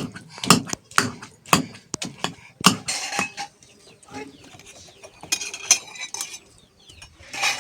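Sharp knocks about twice a second for the first three seconds, then scattered clattering and clinks.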